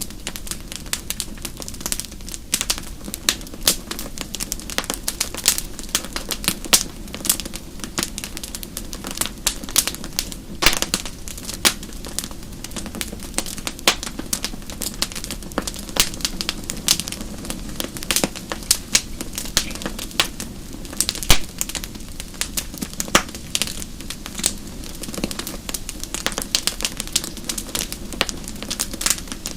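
Wood fire burning in a fireplace, with logs crackling and popping in frequent, irregular snaps over a low, steady rumble of the flames.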